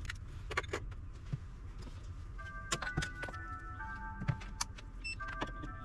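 Scattered light clicks and knocks of handling, with soft background music of held notes coming in about halfway through.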